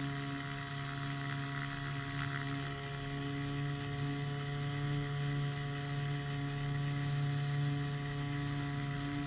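Small engine of a powered hang glider running at a steady speed, a constant drone with no change in pitch.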